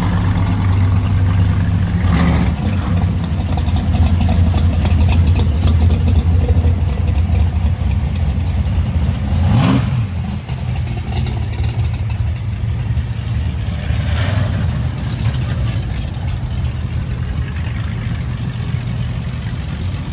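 Muscle car engines running with a steady low rumble, one giving a brief rev about halfway through.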